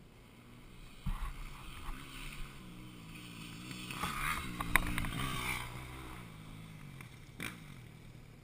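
Dirt bike engine revving up and down, growing louder to a peak about four to five seconds in, then fading. There are a few sharp knocks, the loudest near the middle.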